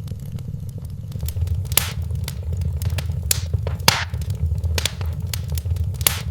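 Wood fire crackling in a fireplace: scattered sharp snaps and pops, a few of them louder, over a steady low rumble.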